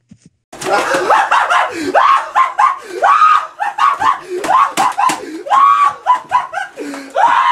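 High-pitched voices squealing, shrieking and laughing without words, in quick rising-and-falling cries that start about half a second in.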